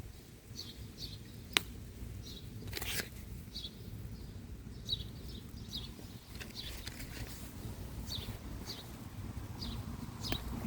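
Small birds chirping: short high chirps repeated about once or twice a second, over a low outdoor background. A sharp click about a second and a half in and a brief rustle about three seconds in.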